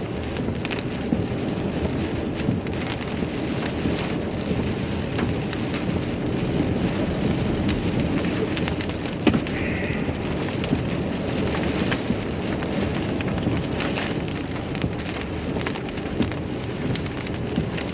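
Rain falling steadily on a car's roof and windshield, heard from inside the cabin: a dense, even hiss with many small drop ticks.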